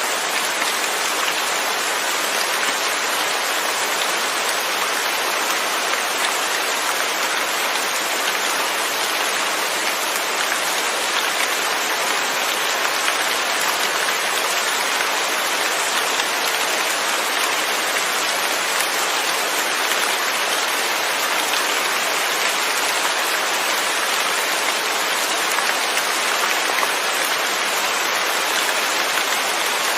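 Steady rain, falling evenly without thunder, a constant hiss with no change in strength.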